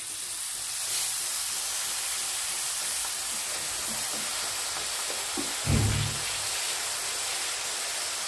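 Fresh fenugreek (methi) leaves sizzling in hot oil and fried spices in a kadhai, a steady hiss. A dull thump about six seconds in.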